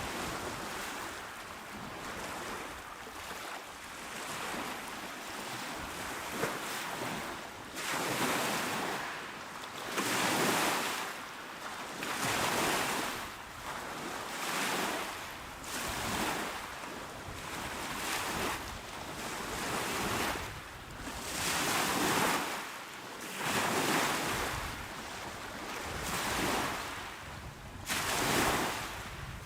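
Small, calm waves washing onto a shore. The wash is quieter for the first several seconds, then swells and falls back in surges about every two seconds.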